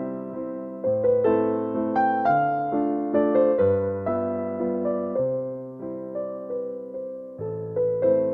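Slow, gentle piano music: single notes and chords struck about once a second, each ringing out and fading.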